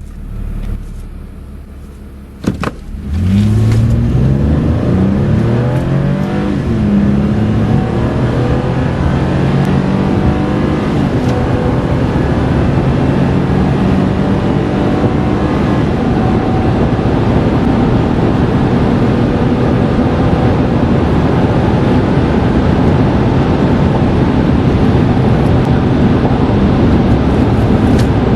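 Toyota Estima's 2GR-FE 3.5-litre V6 under full-throttle acceleration: a sharp click, then the engine note climbs and drops back at each upshift of the six-speed automatic. It settles into steady running at speed, mixed with road and wind noise.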